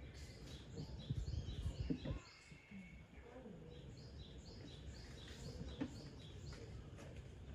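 Small birds chirping over steady outdoor background noise, short high chirps repeating about twice a second, with low rumbling thumps in the first two seconds.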